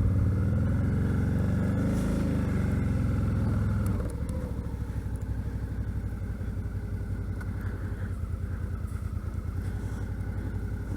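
2012 Suzuki V-Strom DL650's 90-degree V-twin engine running, then easing off about four seconds in and settling to a quieter, steady idle.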